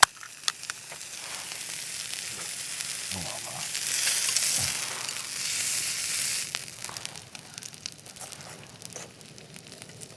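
Thick-cut beef steak sizzling on a hot iron griddle plate. The sizzle swells louder for a couple of seconds in the middle, with a few sharp clicks near the start.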